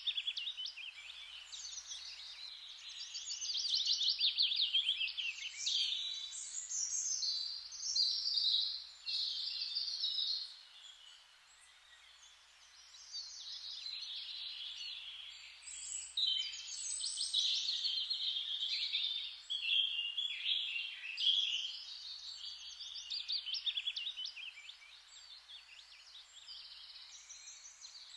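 Several songbirds singing and chirping over one another in overlapping trills and fast chirp phrases, with a brief lull about midway.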